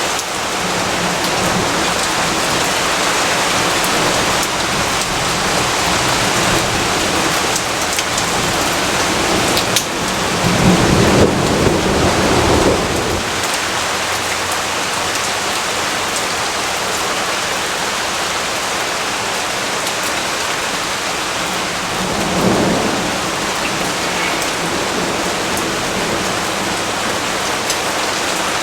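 Steady heavy rainfall with a low thunder rumble swelling up about ten seconds in and a fainter rumble later on.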